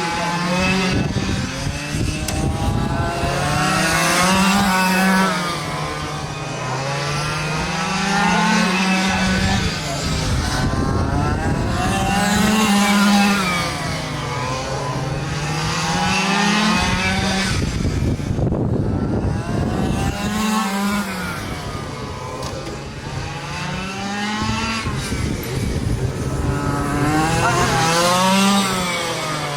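A pack of quarter-scale RC race trucks lapping a track, their small engines winding up and dropping back in pitch over and over, about every three to four seconds, as they accelerate down the straights and lift for the turns.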